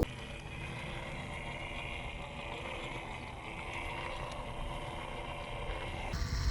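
Electric motor and gearbox of a WPL B36 Ural 6x6 RC model truck whining steadily as it drives.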